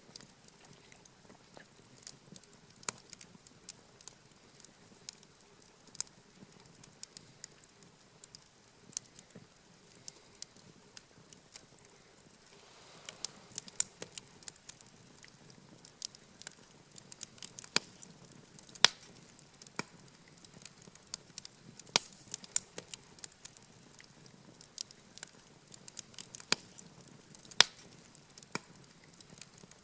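Wood campfire burning and crackling, with irregular sharp pops and snaps that come thicker from about halfway through.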